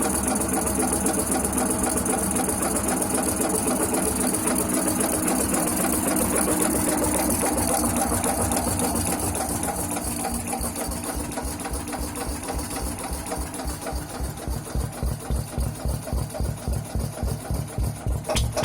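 MWM RL13 hopper-cooled diesel stationary engine running with a fast, even beat. From about halfway through, it slows to a slower beat of separate, distinct firing pulses.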